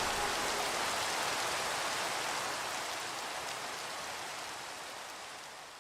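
Recorded rain falling, an even hiss with no music over it, fading out steadily toward the end.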